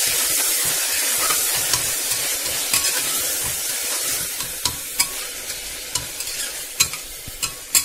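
Onions, tomatoes and ginger-garlic paste sizzling in hot oil and ghee in a pressure cooker pot while being stirred and sautéed. The sizzle slowly quietens, and from about a third of the way in the spatula scrapes and clicks against the pot every second or so.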